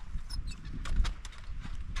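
Camp cooking gear being handled and set in place: irregular clicks, knocks and light thuds of hard parts, with a louder thud about a second in.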